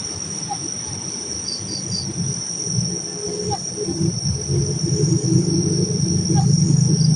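Crickets trilling steadily in a high, continuous drone, with a few short higher chirps. Under them, a low rumble grows louder toward the end.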